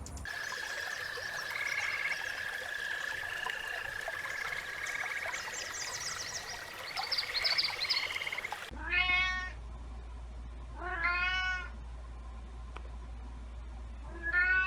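Domestic cat meowing three times, each meow a drawn-out call a second or so long, spaced about two seconds apart. Before it, for the first eight seconds or so, a different clip holds a steady high tone with scattered chirps, and it cuts off suddenly.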